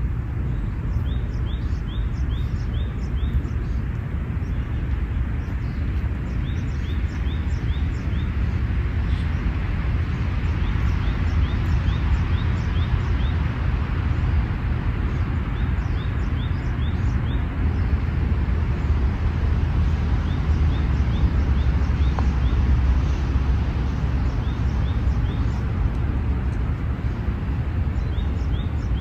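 Outdoor park ambience: a steady low rumble and hiss, with a small bird repeatedly giving short runs of quick, high chirps every few seconds.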